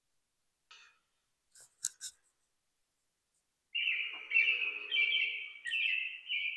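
A bird singing: a run of high chirping notes starting about halfway through and continuing, after a few brief faint clicks.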